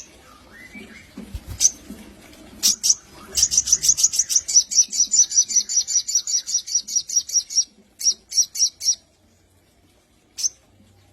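Sogon, a small sunbird kept as a songbird, calling with sharp high chirps. A few separate notes lead into a fast rattling run of about five chirps a second for roughly four seconds, then a short burst of four and one last chirp near the end.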